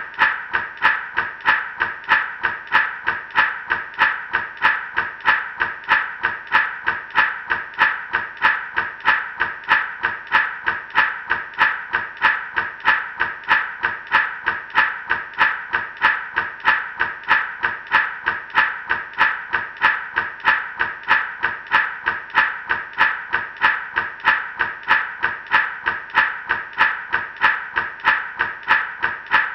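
Gourd rattle shaken in a steady, even rhythm, about two to three shakes a second; the seeds inside rattle against the dry gourd shell.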